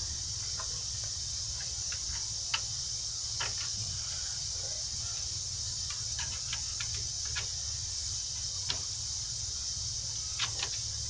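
Scattered light clicks and taps of metal brake parts and tools being handled while a brake caliper and its clips are fitted, with a sharper click about two and a half seconds in and a cluster near the end. A steady high hiss and a low hum run underneath.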